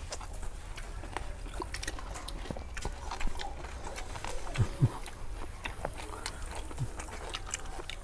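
People chewing and smacking their lips while eating grilled pork, with many small clicks and taps as food is picked up and handled. A few short low grunts come past the middle.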